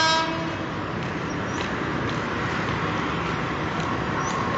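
A JR 205 series electric commuter train's horn cuts off just after the start, then the steady rushing and rumbling of the train running along the track as it approaches.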